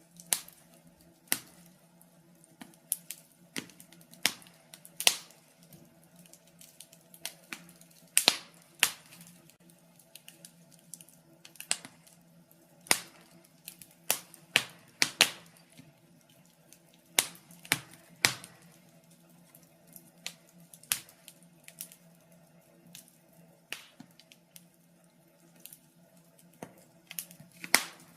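Wood fire in a fireplace crackling, with irregular sharp pops and snaps about one or two a second, over a faint steady low hum.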